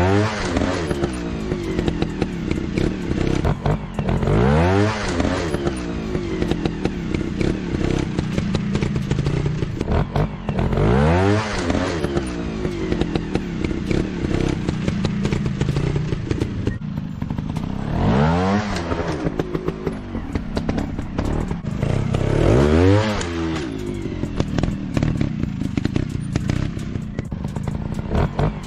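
Motocross dirt-bike engines running hard, the engine note sweeping up and back down every few seconds as the throttle is opened and closed.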